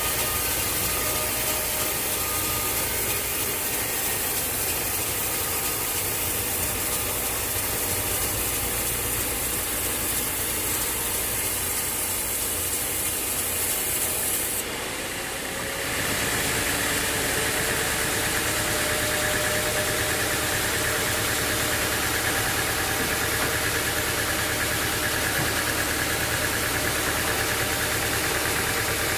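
Sawmill machinery running steadily on an engine. About halfway through, the sound changes abruptly to a steadier, higher-pitched whir.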